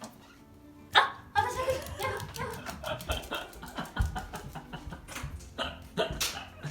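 Shiba Inu barking in a run of short barks and yips, with a sharp knock about a second in.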